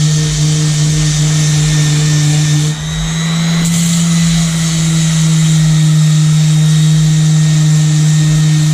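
Electric power sander running steadily against the boat's painted aluminium hull, a constant motor hum under a high hiss of abrasion, with a brief drop in level about three seconds in.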